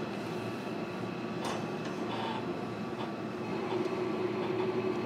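Running noise inside a JR Kyushu 305 series electric train's motor car: a steady rumble with a level hum and a few faint clicks.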